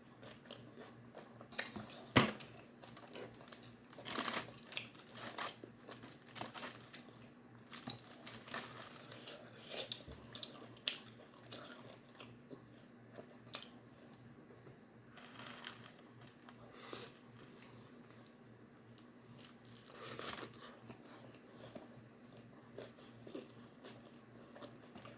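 A person chewing and biting food close to the microphone, with irregular short crunchy bites.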